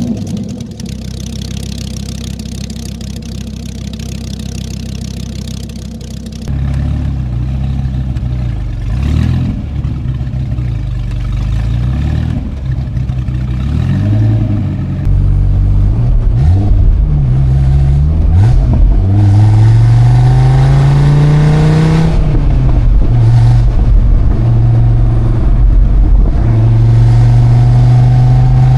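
2006 Dodge Viper SRT10's 8.3-litre V10 engine under way. It runs steadily at first, then about six seconds in it gets louder and the revs rise and drop again and again, ending in a long pull that holds a steady high note near the end.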